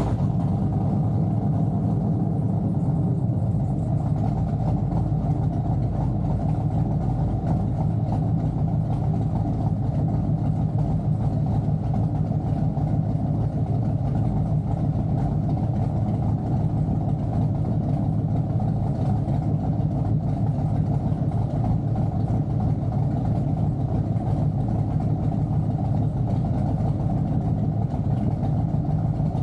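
Doug Rippie LT1 383 stroker small-block Chevy V8 running steadily on an engine dyno, holding an even speed with no revving.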